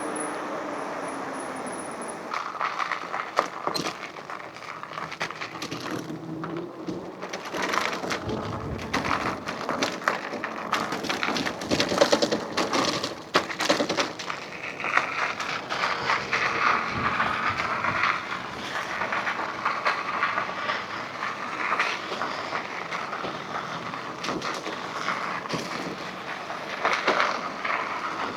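Electric bike being ridden: a steady rush of riding noise with many irregular clicks and knocks from the bike rattling as it goes.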